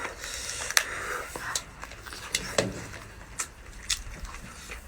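Sharp, separate clicks and cracks of a cooked lobster's shell being pulled apart by hand, about five in all. A short murmured voice comes about halfway through.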